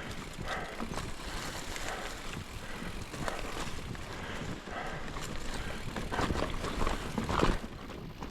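Mountain bike being ridden over a dirt singletrack trail: tyres crunching and the bike rattling over roots and rocks, with a louder jolt near the end.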